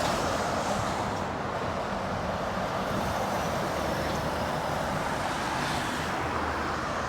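Road traffic going by: a steady rush of tyre and engine noise from passing vehicles, slightly louder in the first second.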